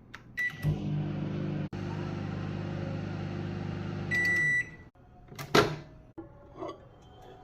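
Microwave oven running: a short keypad beep, then a steady hum for about four seconds that ends with a longer beep. About a second later comes a sharp clunk, followed by a few small clicks.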